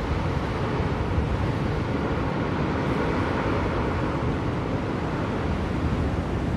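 Steady blizzard wind: a dense, even rush that is strongest in the low range, with no separate knocks or gusts standing out.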